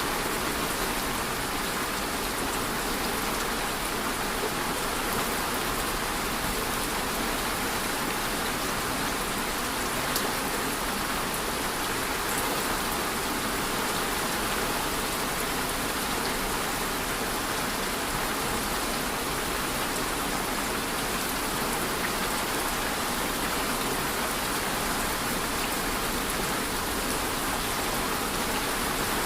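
Steady rain falling on a surface, an even hiss with faint individual drops ticking through it.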